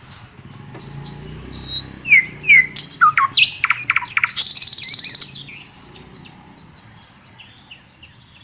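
Several birds chirping and calling: short tweets and quick falling whistled notes. About four and a half seconds in there is a dense, high, buzzy trill lasting about a second, and the calls thin out near the end.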